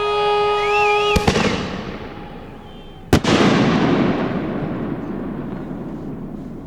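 Aerial fireworks shells bursting twice, about a second in and about three seconds in, each sharp bang followed by a long rolling rumble that slowly fades. A steady pitched tone sounds before the first bang and cuts off with it.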